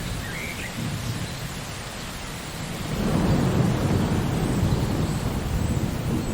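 Steady rain falling, with a low rolling rumble of thunder that swells about halfway through.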